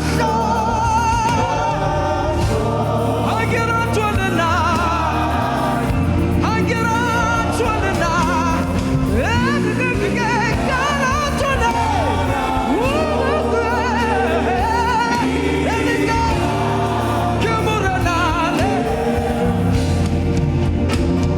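Gospel worship music: singing with wavering, vibrato-laden melody lines over a band with steady sustained bass notes.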